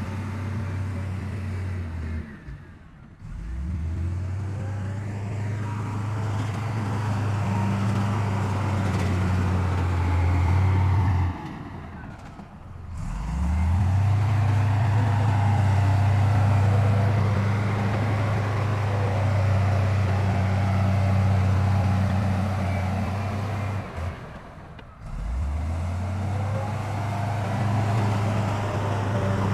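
Heavy diesel engine of earthmoving machinery running steadily under load. Three times it drops off, then revs back up.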